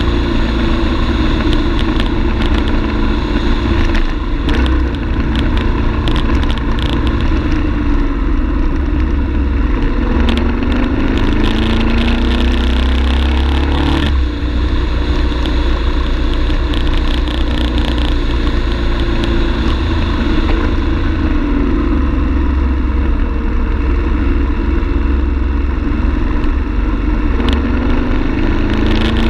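BMW F 850 GS parallel-twin engine running on the move, its revs climbing and dropping back several times, over a steady low rumble.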